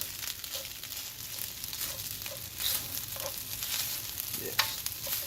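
Cooked rice frying in a hot wok, a steady sizzle with short scraping strokes as it is stirred, one louder scrape near the end.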